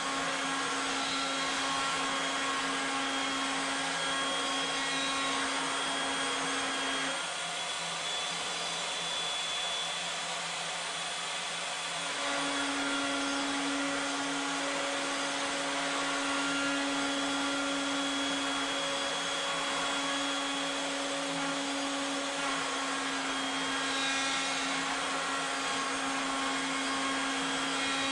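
Router on a Legacy ornamental mill running steadily under CNC control while cutting a three-start spiral rope into round wood stock. Its steady hum dips lower about seven seconds in and comes back up around twelve seconds in.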